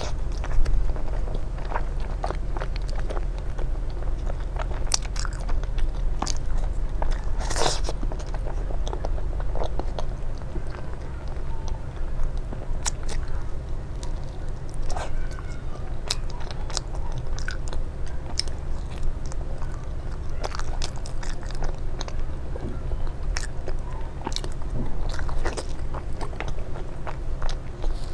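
Close-miked eating: irregular bites, crunches and chewing mouth sounds, over a steady low hum.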